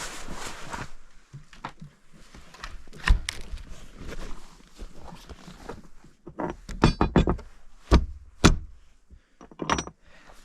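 A run of irregular knocks and thuds, with a rattly clatter of clicks about seven seconds in and the loudest single thuds around eight and eight and a half seconds.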